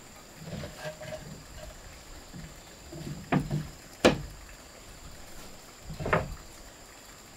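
Three separate knocks a second or two apart, the middle one the sharpest.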